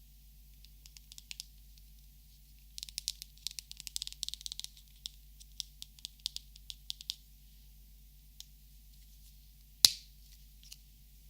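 Light, quick clicks and taps of plastic Copic markers being handled and sorted, in a dense flurry that thins out into scattered ticks. One much louder, sharp click comes near the end.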